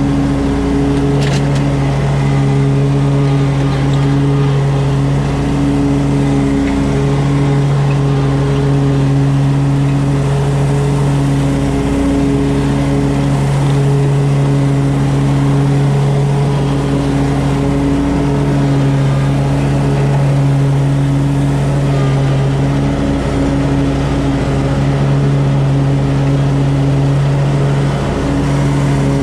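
An engine running steadily at a near-constant speed, its pitch shifting slightly every few seconds.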